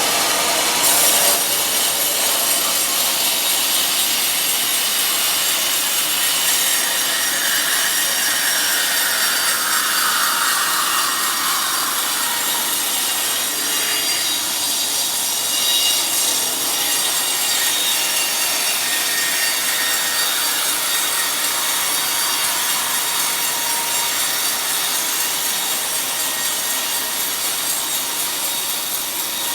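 Sawmill saw cutting through a teak log: a loud, steady rasping hiss, with a whine that slowly falls in pitch twice.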